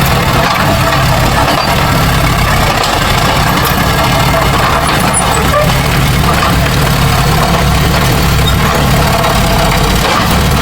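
Heavy earthmoving machine's diesel engine running steadily, a loud, even low drone.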